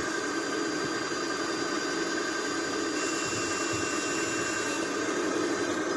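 Diesel engine of heavy earthmoving machinery running steadily, with a thin high whine over it.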